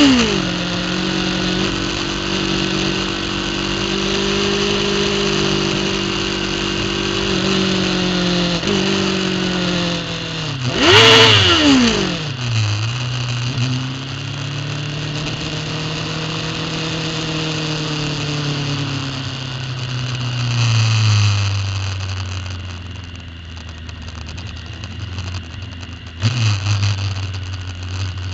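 Racing superbike engine heard from on board, running at part throttle with wind rush. About eleven seconds in it gives a quick sharp rev up and down, then the engine speed sinks steadily to a low idle for the last several seconds.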